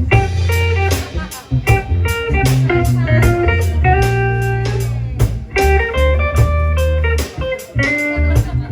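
Live band playing an instrumental passage of a slow song: guitar notes stepping from one held note to the next over a sustained bass line, with regular drum hits.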